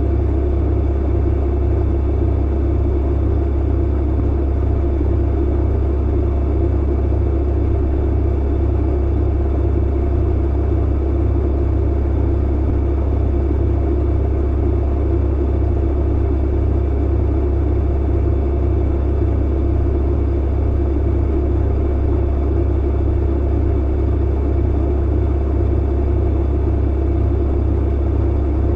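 Clothes dryer running, with a steady low rumble and a constant hum.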